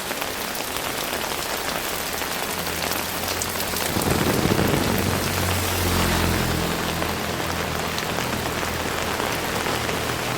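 Heavy rain falling steadily on surfaces. From about three seconds in, a low steady hum runs underneath, swelling briefly around four seconds.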